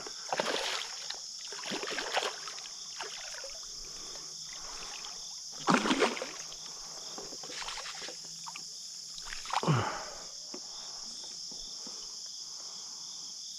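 Hooked bass splashing and thrashing in the shallow creek water during the fight, in several short bursts, the loudest about six seconds in. Steady insect chirring runs underneath.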